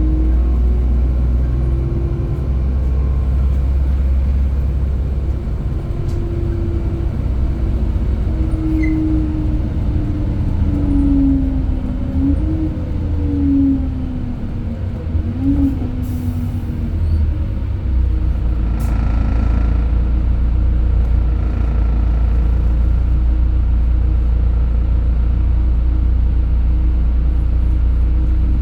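LiAZ 5292.67 city bus under way: the low rumble of its Weichai natural-gas engine, with a whine that glides up and down in pitch through the first half. A short hiss comes about sixteen seconds in.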